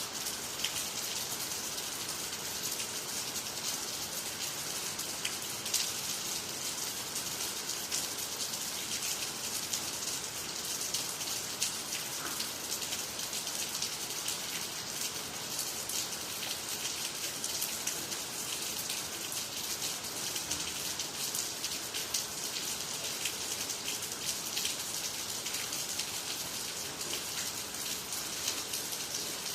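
Steady rain falling, with the crackle of many separate drops hitting the ground and nearby trees.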